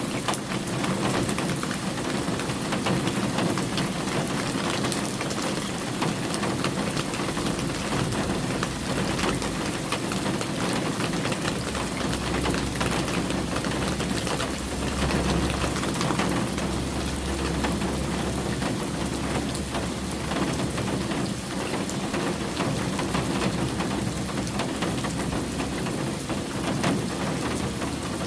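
Steady rain falling on surfaces. A low rumble comes in about twelve seconds in and dies away near the end.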